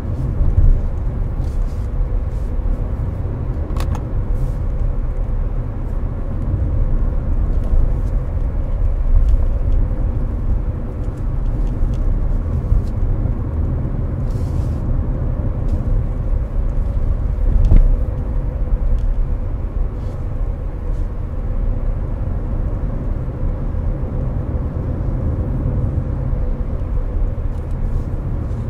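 Inside the cabin of a Hyundai Avante cruising on a highway: steady low road and tyre rumble mixed with the air conditioner's fan, with a faint steady hum. A few light bumps come through, the most noticeable about 18 seconds in.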